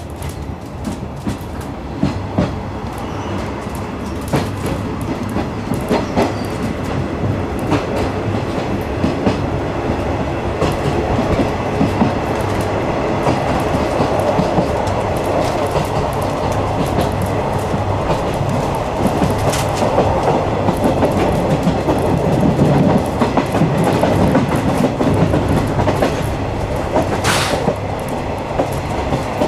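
Ride inside a 50-series passenger coach hauled by a DD51 diesel locomotive: a steady running rumble with wheels clicking over the rail joints, growing louder over the first dozen seconds.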